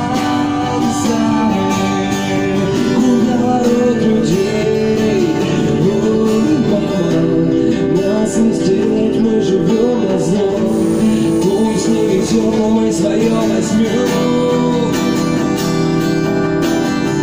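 Acoustic guitar strummed in a steady rhythm, accompanying singing of a song.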